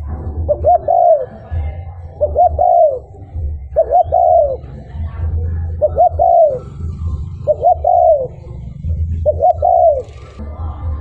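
Spotted dove cooing its song: six repeated phrases, each a short note followed by a longer falling coo, about one every two seconds, over a steady low rumble.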